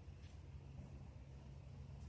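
Near silence: a faint steady low rumble, with one faint short high tick about a quarter second in.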